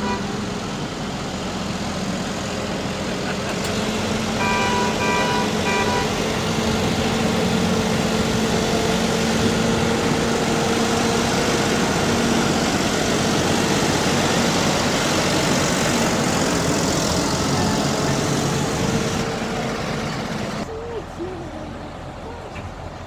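A heavy vehicle's engine running as it passes close by, swelling to its loudest midway and then fading. A horn sounds for about a second and a half, about five seconds in.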